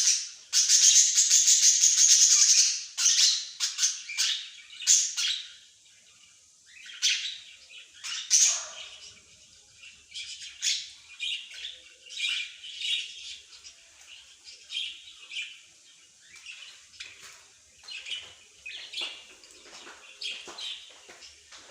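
Small songbirds chirping and singing, with a loud, rapid trill over the first three seconds, then scattered shorter chirps and calls at a lower level.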